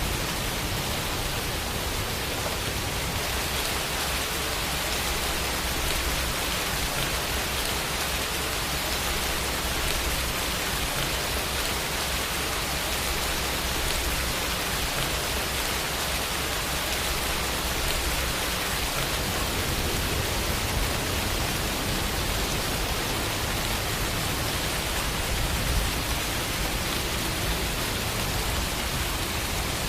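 Steady rain falling, an even, dense hiss of many drops with no single drops standing out.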